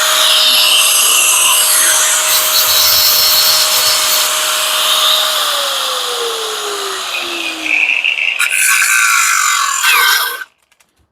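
Power tool cutting into a metal fitting to see whether it is brass or stainless steel. Its steady whine drops in pitch about halfway through, and the noise cuts off suddenly near the end.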